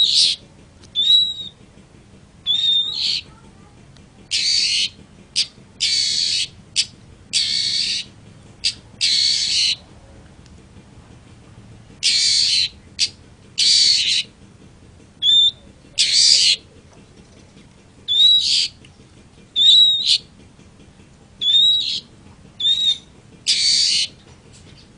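Long-tailed shrike (cendet) calling: a series of harsh, rasping calls, each about half a second to a second long, mixed with short clear whistled notes, with a pause of about two seconds around ten seconds in.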